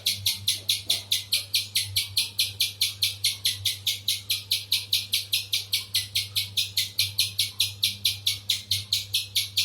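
A spiderhunter calling a fast, even series of sharp high chip notes, about five a second, without a break.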